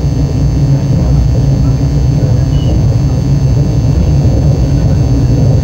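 KTX high-speed train running, heard from inside the passenger cabin as a loud, steady low rumble.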